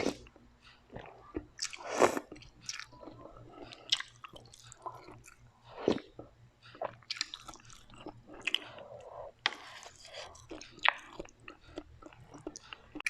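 Close-miked eating: irregular biting and chewing of crunchy food, with sharp crunches, the loudest about two, six and eleven seconds in.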